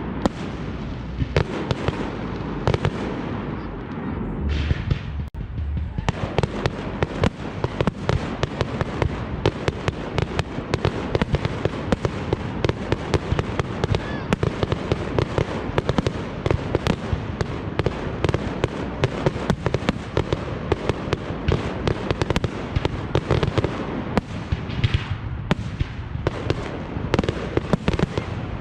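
Fireworks going off in a dense barrage of bangs and crackles, many per second, thickening after about six seconds, with a brief hiss twice.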